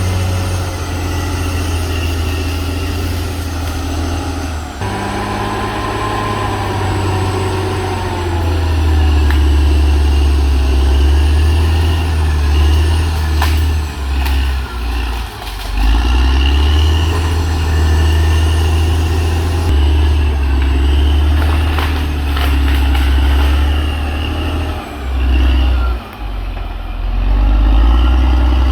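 Diesel engine of a CAT D6R XL bulldozer running under changing load, its pitch rising and falling several times, with a few sharp clanks.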